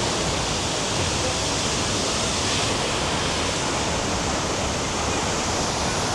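Steady, even rush of falling water from the waterfall and heavy rain.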